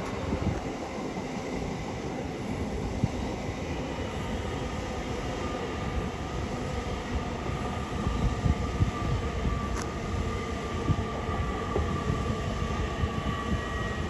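A train passing along the main line: a steady rumble of wheels on rail, with a thin whine that comes in partway through and grows toward the end.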